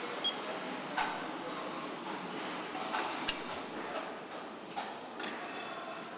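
Truck assembly-line noise: a steady background of machinery with sharp knocks and clicks about once a second.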